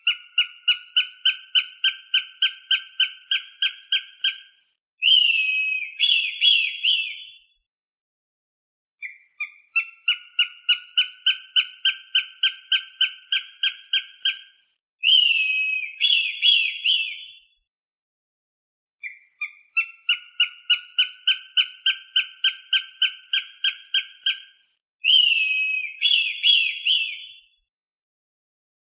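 Recorded hawk calls: a fast run of sharp, high notes, about four a second for roughly five seconds, then two or three longer, harsh, falling screams and a brief pause. The sequence repeats three times.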